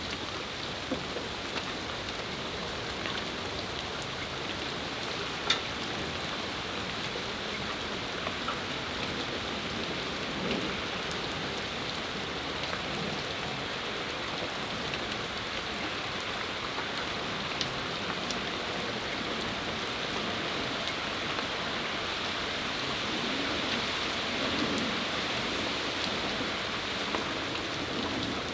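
Steady rain falling on patio surfaces, an even hiss dotted with sharper drip clicks, one louder drop strike about five seconds in.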